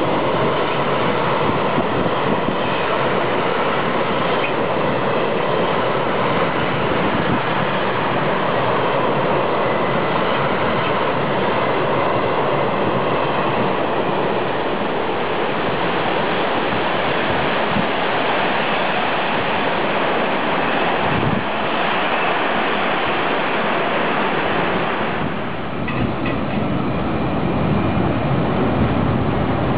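Freight wagons rolling past close by: a steady, loud noise of steel wheels running on the rails, changing briefly a few seconds before the end.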